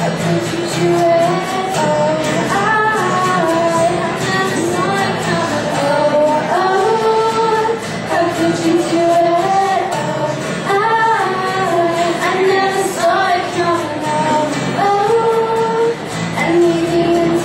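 Female voice singing a melody over guitar accompaniment, a live acoustic song performance.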